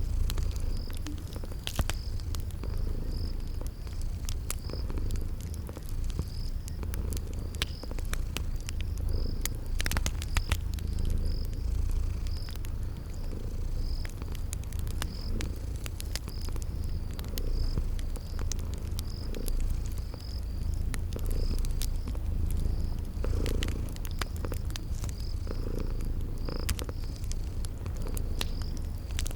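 Cat purring with a steady, pulsing low rumble, layered with crickets chirping about every two-thirds of a second and the scattered crackles and pops of a wood fire.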